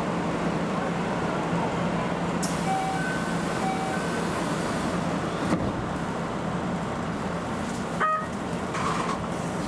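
Keio Inokashira Line electric train running at speed, heard from the driver's cab: a steady rumble of wheels and running gear with a low hum, and two short beeps about three seconds in.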